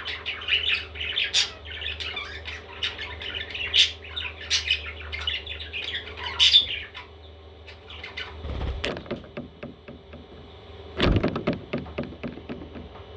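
Baby parrots calling with a rapid jumble of squawks and chirps, which dies down about halfway through. Two short, rough, louder bursts follow in the second half.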